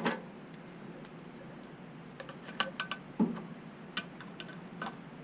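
A handful of light clicks and knocks from hand tools and metal parts being handled while a part is fitted onto an electric motor's shaft. A cluster of quick clicks comes a little after two seconds in and a heavier knock just after three.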